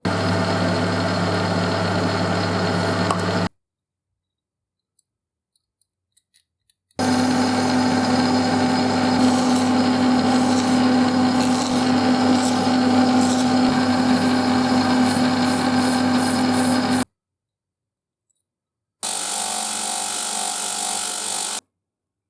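A power tool running steadily, heard in three separate stretches that start and stop abruptly, with silence and a few faint clicks between them.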